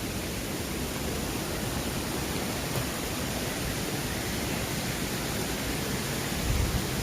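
Mountain valley stream rushing steadily after rain, an even hiss of running water, with a few low bumps near the end.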